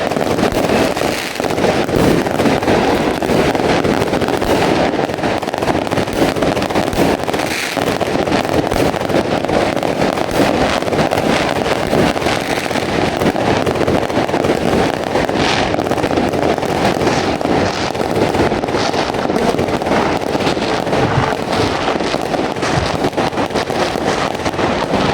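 Fireworks display going off without a break: a dense, steady stream of crackling and bangs.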